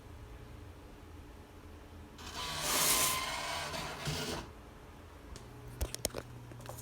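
Grain moisture tester running its test on a wheat sample: about two seconds of loud mechanical whirring, then a few light clicks near the end, over a low steady hum.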